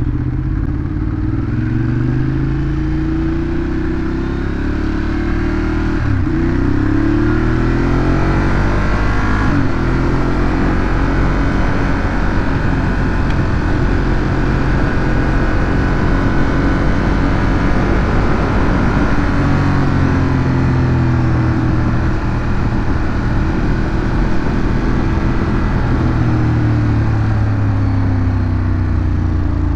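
Ducati Monster 821's V-twin engine through its stock exhaust, running loud and continuously while being ridden. The engine note climbs steadily a few seconds in, holds high, drops away past the middle, then rises and falls again near the end as the rider accelerates and eases off.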